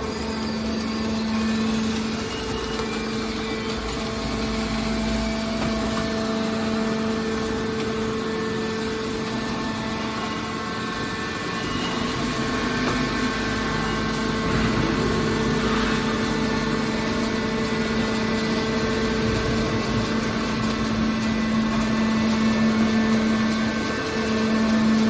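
Hydraulic scrap metal baler running: its motor and hydraulic pump give a steady hum.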